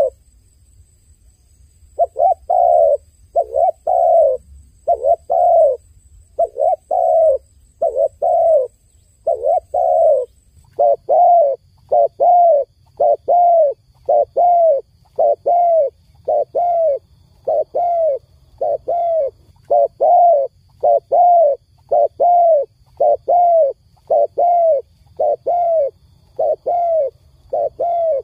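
Dove cooing over and over in short, arched notes that often come in pairs, starting after a two-second pause, over a faint low hum.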